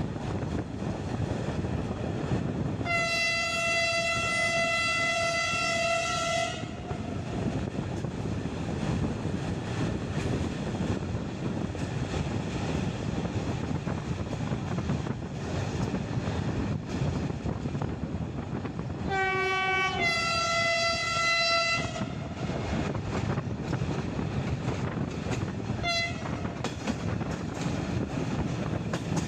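Train horn sounding over the steady rumble of the moving train, heard from a carriage window: one long blast a few seconds in, then a short lower note followed by a second long blast around twenty seconds in, and a brief toot near the end. The line is unelectrified, so the train is diesel-hauled.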